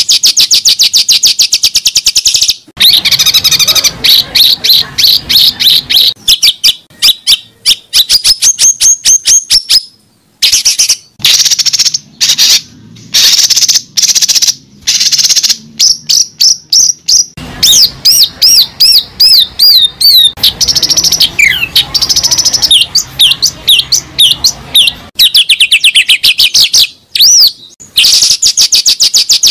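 A bird singing: fast trills of high, rapidly repeated chirps, broken by short pauses, with a run of down-slurred whistled notes about two-thirds of the way through.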